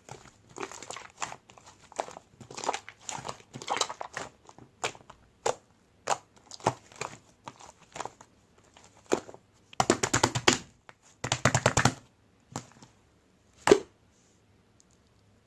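Slime being squished and pressed by hand, with irregular sticky crackles and pops. Two dense runs of rapid popping come about ten and eleven seconds in, and a single loud pop follows near the end before it falls quiet.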